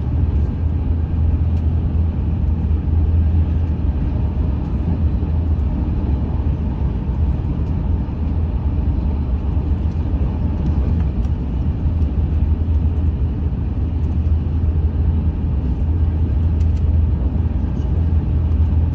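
Steady low rumble of a French high-speed train running along the track, unchanging throughout, with a few faint clicks.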